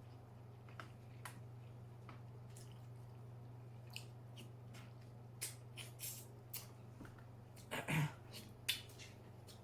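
Close-miked eating of a seafood boil: scattered wet mouth clicks and smacks while chewing, with a louder cluster about eight seconds in, over a faint steady low hum.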